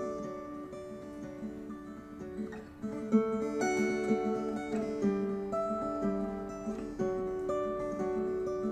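Viola caipira, the Brazilian ten-string guitar, played solo as a slow lullaby: plucked notes and chords ringing out and overlapping, with a sharper pluck a little after three seconds in.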